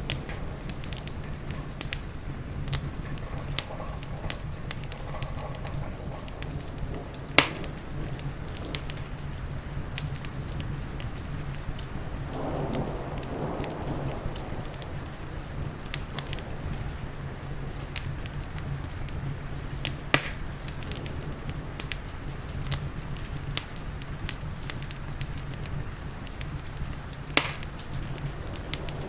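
Wood fire crackling with frequent small snaps and three louder pops, over a steady hiss of rain.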